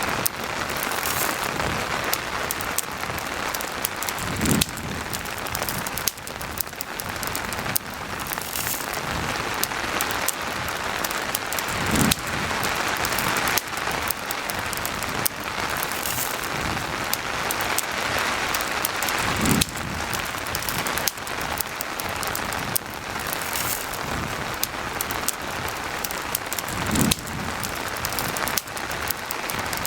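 Steady rain hiss mixed with a crackling campfire, its small pops and snaps scattered throughout. A short low thump recurs about every seven and a half seconds.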